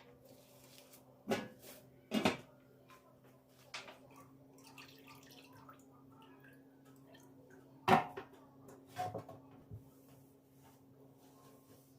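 Kitchen handling sounds: a few sharp knocks and clinks of dishes or utensils, the loudest about eight seconds in, over a steady low hum.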